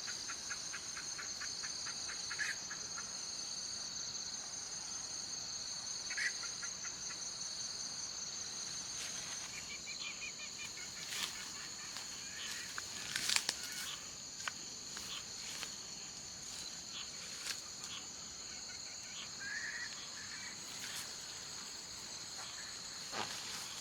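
A steady chorus of insects trilling at a high pitch, with scattered sharp clicks and taps throughout, the loudest about 13 seconds in.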